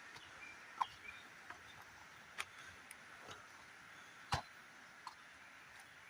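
Irregular knocks and taps from footsteps and handholds while climbing over rock, a few seconds apart, with the loudest about a second in and again near four seconds. Behind them, a faint steady jungle insect hiss and a few short high chirps.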